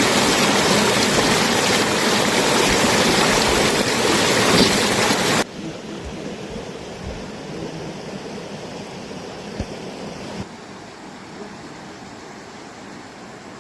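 Steady rushing of water, loud at first, dropping suddenly to a much quieter rush about five and a half seconds in and quieter again about ten and a half seconds in.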